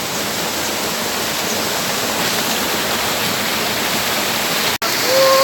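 Waterfall rushing steadily, a loud even roar of falling water, with a split-second break in the sound near the end.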